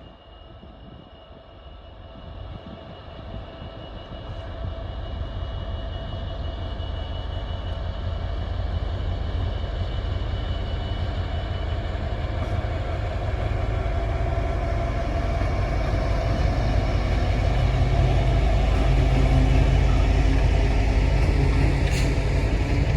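A train approaching: a low rumble with a steady engine hum that grows steadily louder over about twenty seconds, with a short sharp click near the end.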